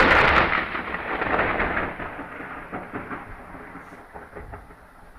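A thunderclap: a sudden loud crack that rolls into a rumble, fading away over about five seconds.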